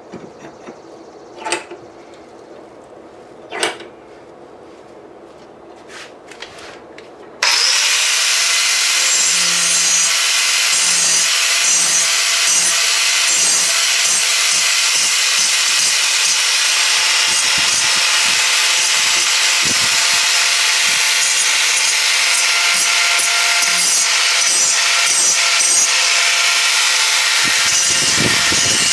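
A few light knocks, then about seven seconds in a power grinder grinding on the steel anvil starts suddenly and runs steadily: harsh grinding noise over a steady motor whine as the sharp edges are ground down.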